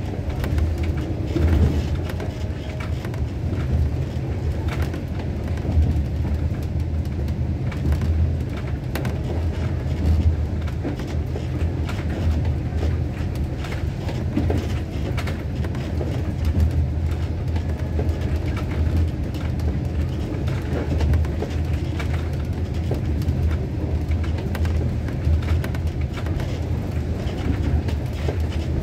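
Passenger train running along the track, heard from on board: a steady low rumble with frequent short clicks from the wheels and carriage.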